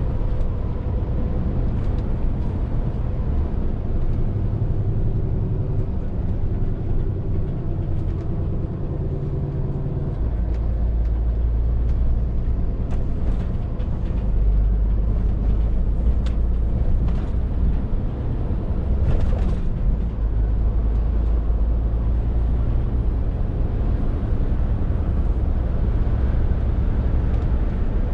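A Scania R450 lorry's six-cylinder diesel engine running on the move, with a steady low rumble and road noise. The engine note changes about ten seconds in.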